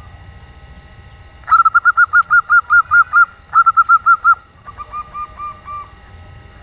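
Female zebra dove (perkutut) giving its rapid 'nyelir' call: about a second and a half in, a quick run of about ten clipped notes, then a shorter run of five, then a fainter, slightly lower run.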